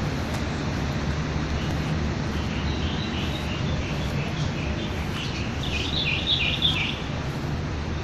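Birds chirping in quick runs of short, high calls, thickest about three-quarters of the way through, over a steady low rumble.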